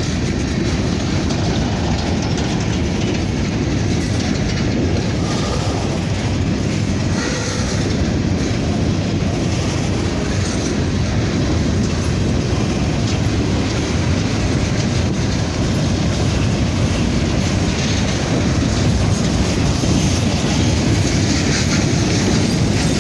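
Loaded covered hopper cars of a freight grain train rolling past close by: a steady, loud rumble of steel wheels on the rails.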